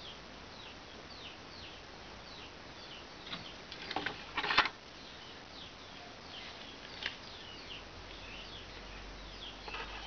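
Small birds chirping in the background, a steady string of short falling chirps. About four seconds in comes a brief louder burst of noise, and a single click near seven seconds.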